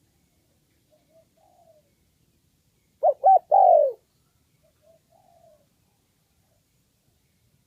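Spotted dove calling: one loud coo about three seconds in, two short notes and then a longer note that falls in pitch. Fainter coos come before and after it.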